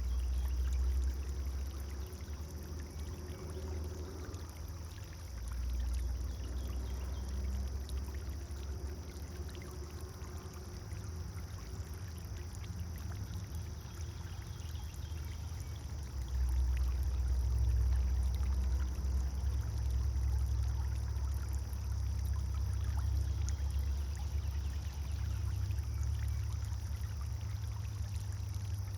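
Garden pond fountain pouring and trickling water into the pond steadily, under a low rumble that swells and eases, loudest in the second half.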